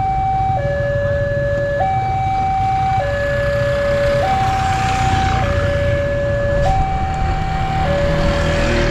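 Railway level-crossing warning alarm: two electronic tones, a lower and a higher, alternating steadily about every 1.2 seconds, over a continuous low rumble.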